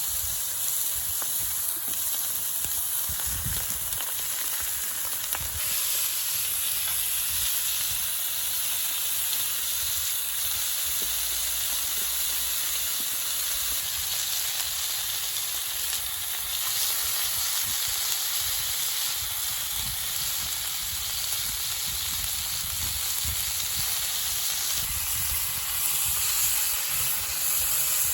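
Slices of raw pork belly sizzling steadily on an iron griddle.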